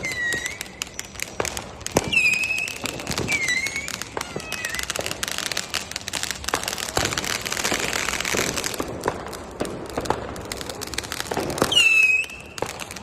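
Backyard fireworks going off: a rapid series of sharp cracks and pops, several short whistles, and a dense crackling hiss from about five to nine seconds in.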